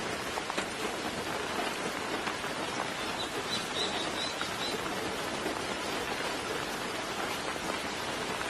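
Steady soft rain falling, a fine patter of drops. About three seconds in, a bird gives a short run of about five quick high chirps.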